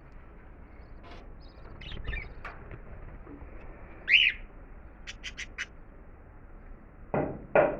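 A bird calling: one loud, short call that rises and falls about four seconds in, then a quick run of four high chips, then a string of loud, rapid calls starting near the end.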